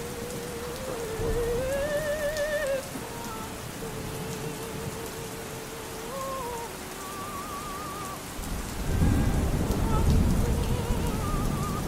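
Steady rain under faint operatic singing, a held voice line with wide vibrato. About nine seconds in, a low rumble of thunder swells for a couple of seconds.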